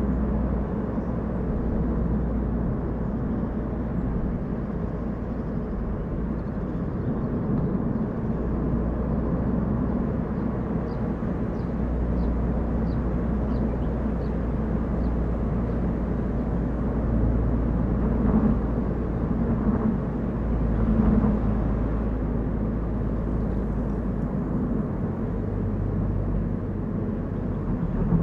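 Car driving: a steady low rumble of engine and tyre noise on the road, with small swells a little past halfway.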